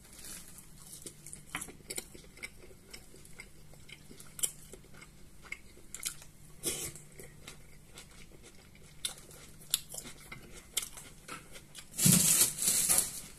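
Close-up chewing of fried meat-filled mini samsa pastries, with small wet mouth clicks and smacks. A louder, noisy burst comes about twelve seconds in.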